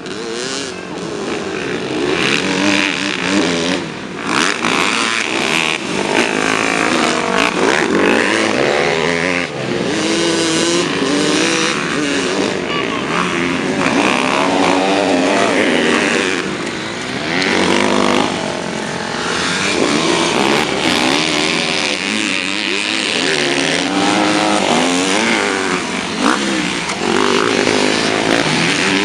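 Several motocross dirt-bike engines revving hard as they race, overlapping, with their pitch repeatedly rising and falling under throttle and gear changes.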